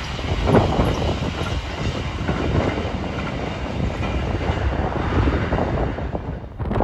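Freight train of tank wagons hauled by a Class 66 diesel locomotive rolling past with a steady rumble, its wheels clicking over rail joints now and then; the sound dips near the end.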